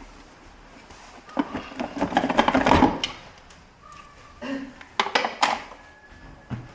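Something being shaken hard by hand to work a stuck part loose, a dense clattering rattle for about a second and a half, then a few sharp knocks and clicks later on.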